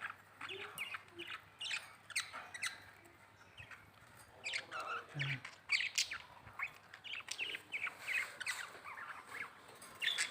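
Budgerigars chattering: many short, quick chirps scattered throughout.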